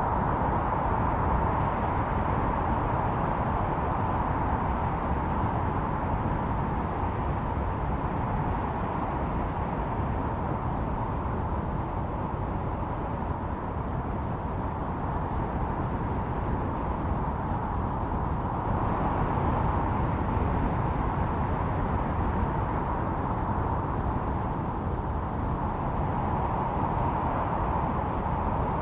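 Snowstorm wind howling: a steady rush with a whistling note that swells and eases.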